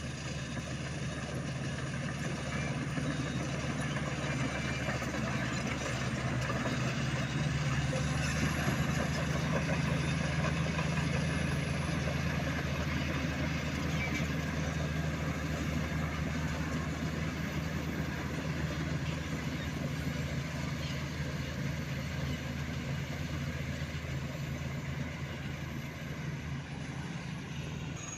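Heavy diesel dump truck engine running steadily with a deep rumble, swelling a little about a third of the way through.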